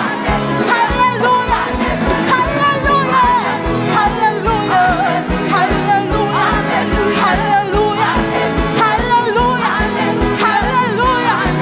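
Live gospel worship music: a band with a steady, driving drum beat under singing voices, going on without a break.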